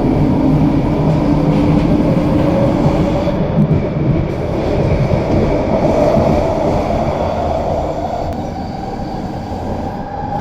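Train running along its rails: a loud, steady rumble with a low humming tone.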